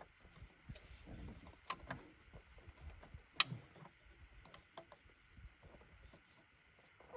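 Faint clicks and light knocks of tools and parts being handled while working inside a car's engine bay, with two sharper clicks about a second and a half apart near the middle, the second the loudest.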